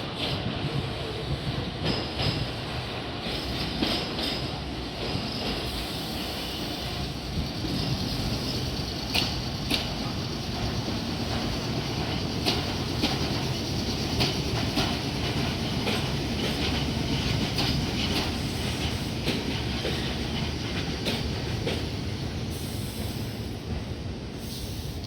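Electric train running along the track, its wheels clacking sharply over rail joints at irregular intervals over a steady rumble.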